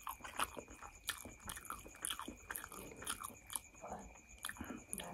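Close-up chewing of a mouthful of noodles: a rapid, irregular string of short wet mouth clicks. A faint steady high-pitched whine runs underneath.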